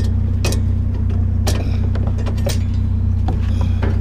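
Pickup truck engine idling steadily, with a handful of sharp clanks and knocks as scrap pieces are dropped into the truck bed.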